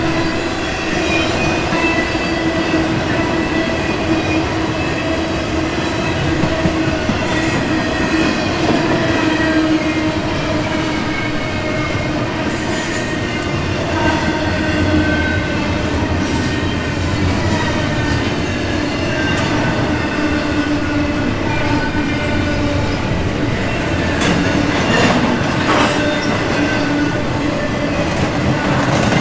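Intermodal freight cars, double-stack containers and highway trailers, rolling past: steady clatter of steel wheels on rail with several sustained squealing tones from the wheels, and a few louder clanks near the end.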